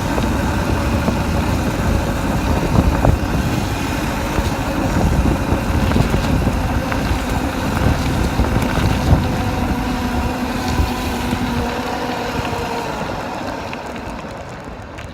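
Dirt bike engine running while riding, with heavy wind buffeting the microphone. The engine note fades away in the last few seconds.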